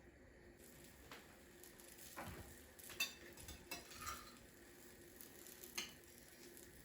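A few light clinks and knocks of kitchen utensils against dishes, at irregular intervals, with a short scrape about two seconds in.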